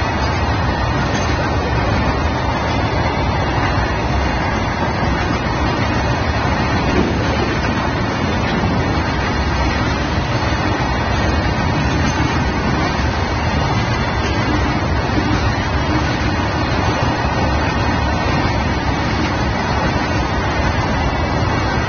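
BOXN open freight wagons rolling past on the track: a steady rumble and clatter of wagon wheels on the rails that goes on unbroken.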